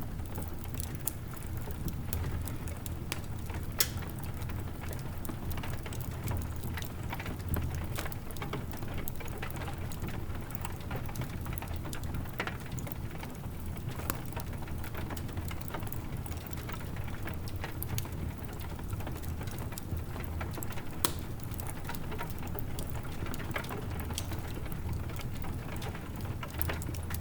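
Wood fire crackling in a fireplace, with scattered sharp pops, over steady soft rainfall and a low rumble.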